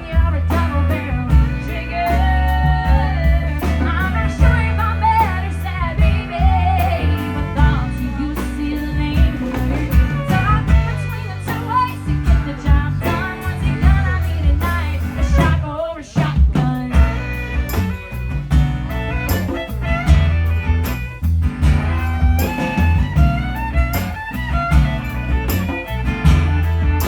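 A band playing a blues-rock song: singing over electric guitar, bass and drums.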